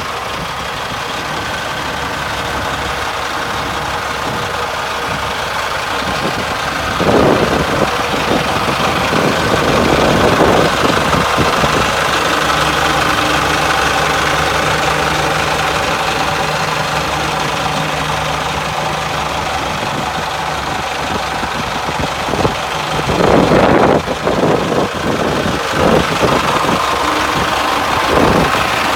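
Caterpillar diesel engine of a 2000 Sterling dump truck idling steadily, with several brief louder surges along the way.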